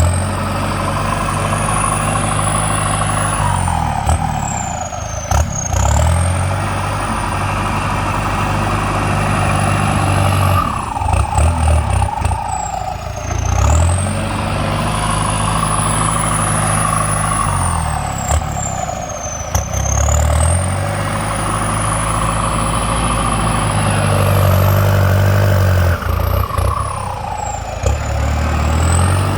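Kubota diesel tractor engine running under plowing load, its pitch sagging and recovering every few seconds along with a high whine. A few short clunks come about five seconds in and again near the middle.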